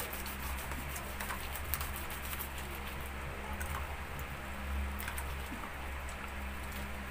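Crispy deep-fried pork leg skin crackling in scattered small crunches as it is torn apart by hand, over a steady low hum.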